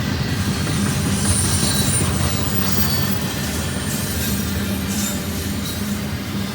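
Intermodal stack train's cars rolling past on the main line: a steady rumble of steel wheels on rail, with faint high wheel squeal in the first couple of seconds.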